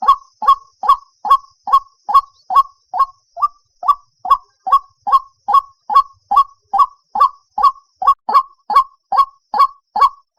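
White-breasted waterhen calling: a short, hoarse note repeated steadily, about two and a half times a second.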